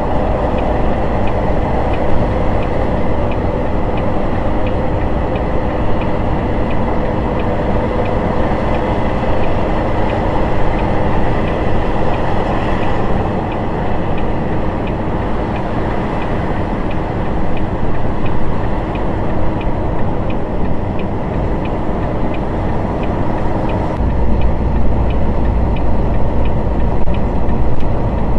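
Steady engine and road noise heard from inside a moving vehicle, with a faint regular ticking throughout. The low rumble changes about 24 seconds in.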